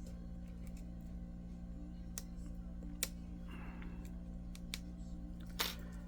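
Scattered small clicks and taps of a repair tool working at the cracked iPad 2 touch glass, with a short scrape a little after the middle and two sharper clicks, one about three seconds in and one near the end. A steady low electrical hum runs underneath.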